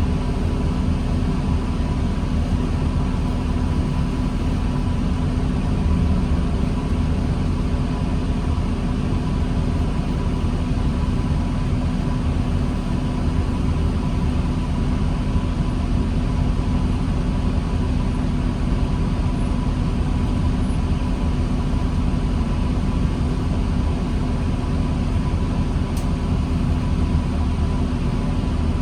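2009 New Flyer D40LFR diesel transit bus running at a steady low drone, with a faint steady high tone over it and no change in pitch.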